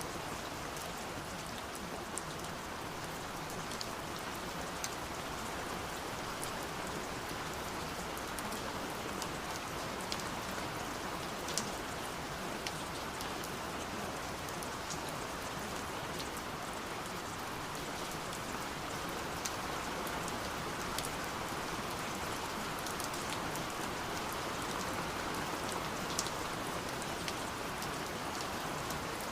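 Steady rain falling, with many scattered raindrop ticks.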